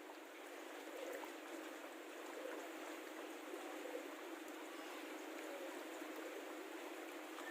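Faint, steady rushing of water outdoors.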